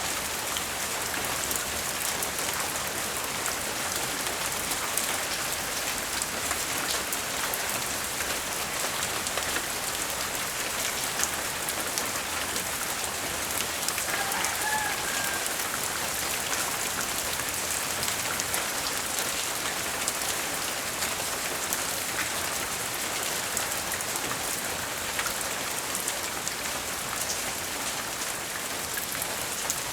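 Steady light rain falling, with individual drops pattering and dripping on surfaces. A brief faint call is heard about halfway through.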